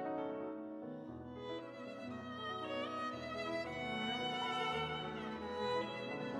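Background music: a bowed-string arrangement led by violin over low cello notes, with held notes that change every second or so.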